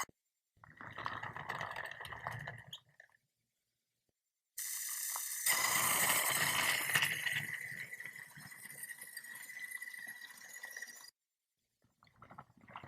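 Battery-powered toy train running on plastic track: a steady high motor whine over rattling wheels. It plays in two stretches, a short one near the start and a longer, louder one from about a third of the way in, each cut off abruptly into silence.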